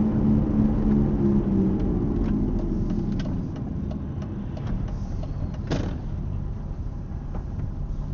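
Mercedes-Benz R170 SLK's worn, dying wheel hub bearing humming over road noise as the car drives. The hum fades after about two seconds as the overall noise slowly drops off, with small ticks and one short sharp sound about six seconds in.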